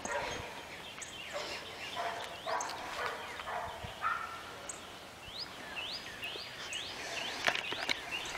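A bird calling outdoors in a quick series of short rising chirps, several a second, mostly in the second half. Under it are rustling and light thumps of footsteps through dry leaves and pine straw.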